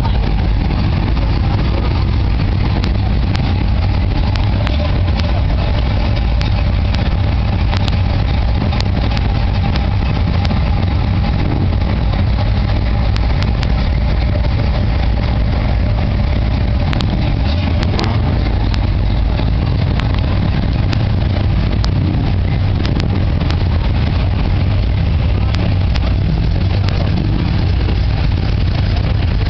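Classic cars' engines running and idling as they creep past in slow stop-and-go traffic, a steady low rumble.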